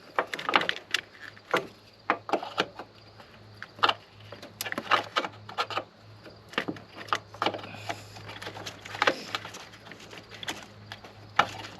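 Irregular clicks, taps and scrapes of hands working plastic trim and washer hose loose in a car's engine bay, over a steady low hum.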